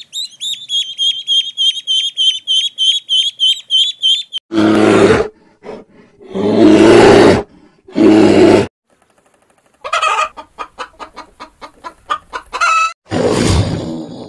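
A run of different animal calls. First comes a fast series of high chirps, about four a second, for some four seconds. Then come three loud calls, a rapid run of short clucking notes, and a final loud call near the end.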